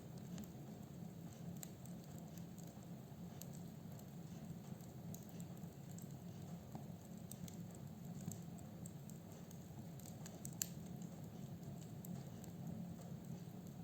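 Wood fire burning in a fireplace: firewood crackling with scattered sharp pops over a faint, steady low rumble of the flames, the loudest pop about ten seconds in.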